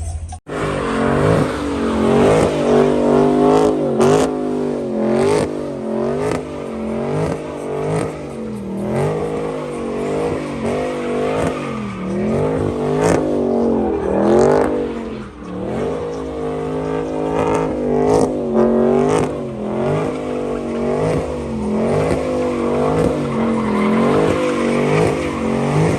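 Modified car engine revving up and down over and over, its pitch rising and falling about once a second, with a hiss of tyre noise underneath.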